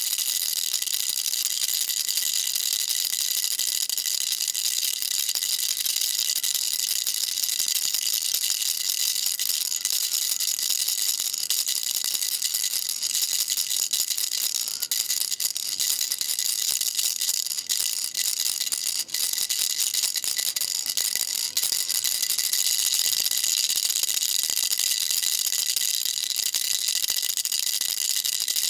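Baby rattle shaken without pause: a steady, dense, high rattling, with a few brief dips in the middle.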